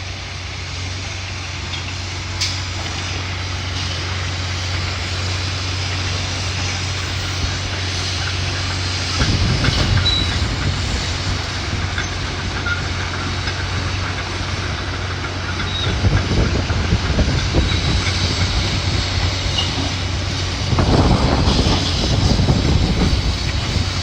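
Demolition excavator's diesel engine running steadily at a low hum. About nine seconds in, again about sixteen seconds in, and again near the end, louder stretches of rumbling and scraping come through as the machine picks through the demolition debris.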